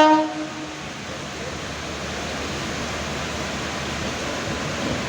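A brief pitched tone at the very start, then a steady rushing noise of a passenger train rolling in along a station platform.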